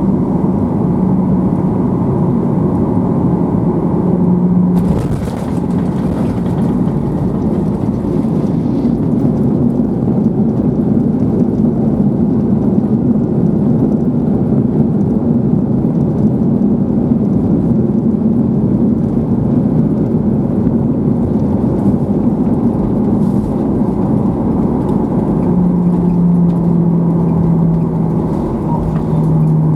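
Boeing 737-800 cabin noise: a steady roar of engines and airflow with a held low hum, and one sharp knock about five seconds in. Near the end the hum drops to a lower pitch.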